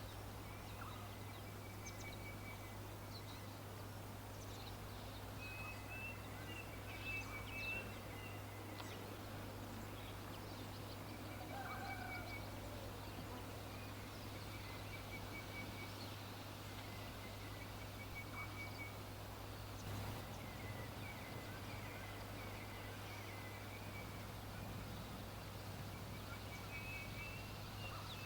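Small birds singing: short, rapid trilled phrases repeated every few seconds, with scattered brief chirps between them, over a steady low hum.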